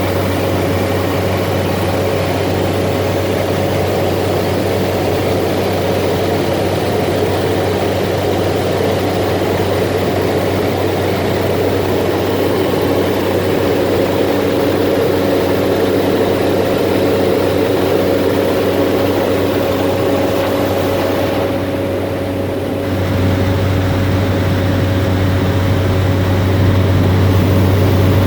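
Cessna Caravan's single Pratt & Whitney PT6A turboprop and propeller droning steadily in cruise flight, with low steady tones under a broad rush of air. About three quarters of the way through, the hiss briefly dulls for a second or so, then the drone carries on.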